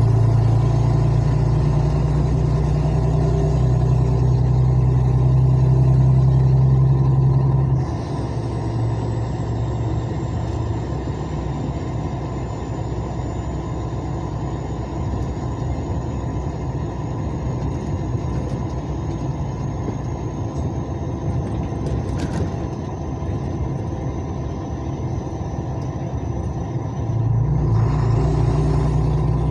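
Vehicle engine running with a loud, steady low drone for about eight seconds. It drops off abruptly to a quieter rumble, then comes back near the end.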